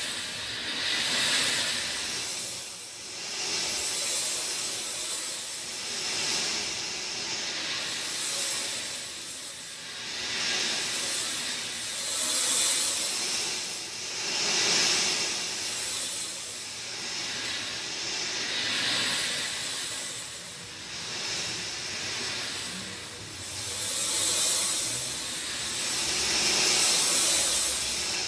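Steady rain falling, a dense hiss that swells and eases every couple of seconds.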